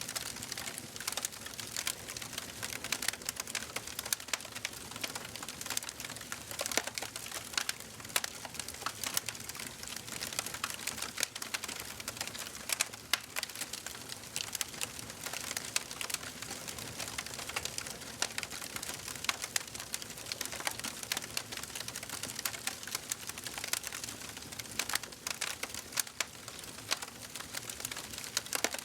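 Wood fire in a fireplace crackling and popping, a dense run of irregular sharp pops over a soft steady hiss of burning.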